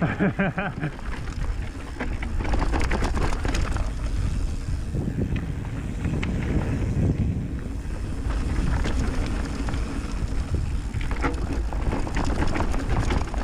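Mountain bike riding down a dirt trail: wind buffeting the microphone over a low rumble of tyres, with the bike clattering and rattling over bumps.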